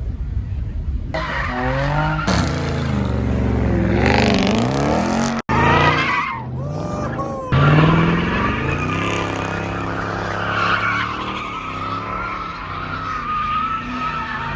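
A car's engine revving hard again and again, its note rising and falling, with tires squealing as they spin and skid. The sound breaks off abruptly about five seconds in and picks up again.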